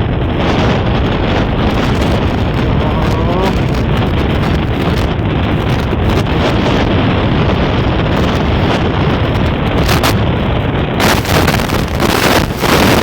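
Steady wind rush buffeting the microphone on a moving Honda SP125 motorcycle, with its single-cylinder engine and road noise underneath. A few louder gusts come near the end.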